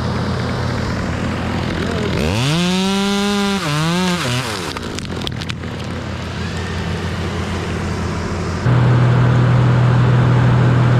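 Chainsaw revved up sharply about two seconds in, held at full speed, dipping and revving again before dropping back, over a steady engine hum. Near the end a louder, steady engine tone sets in.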